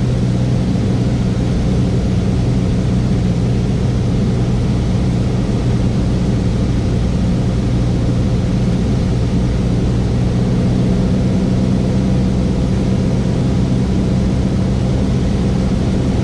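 Cessna 172S cabin noise: the four-cylinder Lycoming engine and propeller droning steadily, one low unchanging hum with no change in power, during final approach.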